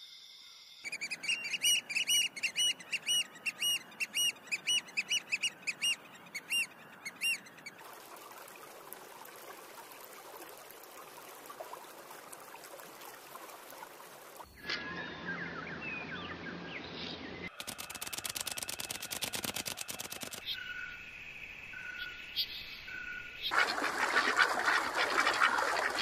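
A run of bird sounds. First a bird repeats a short arched whistled call about three times a second for several seconds, then comes a stretch of soft steady hiss, then a fast rattling trill and three short clear notes. Near the end there is a loud burst of duck quacking.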